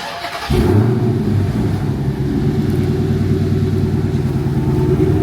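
Dodge Charger SRT Hellcat Redeye's supercharged 6.2-litre Hemi V8 being started: a brief crank, then it catches about half a second in, flares briefly and settles into a loud, steady cold-start idle to warm up the oil.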